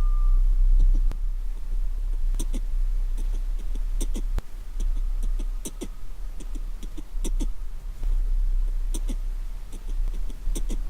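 Mouth-made imitation of a Keikyu New 1000 series train running: a steady low rumble with pairs of sharp clicks about every one and a half seconds, like wheels crossing rail joints, and a faint steady whine in the middle.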